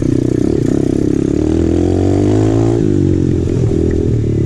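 Single-cylinder 125cc four-stroke engine of an Apollo RFZ pit dirt bike running under way on a trail, its pitch rising and falling with the throttle. It eases off about three seconds in, then picks up again.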